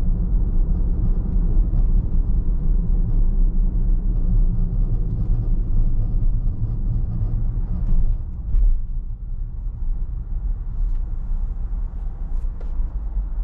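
Car driving: a steady low rumble of engine and tyre noise, which eases a little about two-thirds of the way through.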